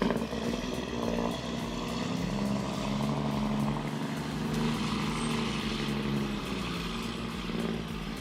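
Heavy truck engine running with a steady, even hum.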